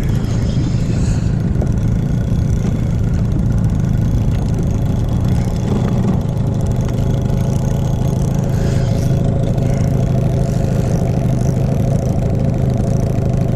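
Boat engine running steadily with an even hum, driving the boat after a hooked ray.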